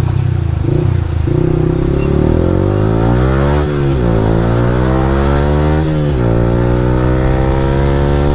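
Yamaha R15 V3's single-cylinder engine through an Akrapovic R9 aftermarket exhaust, accelerating through the gears: the revs climb, drop sharply at two upshifts about three and a half and six seconds in, then climb again.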